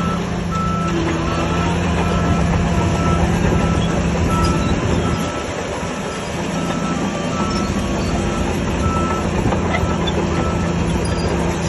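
Heavy earthmoving machine's diesel engine running steadily under a reversing alarm beeping at an even pace. The engine eases off briefly around the middle before picking up again.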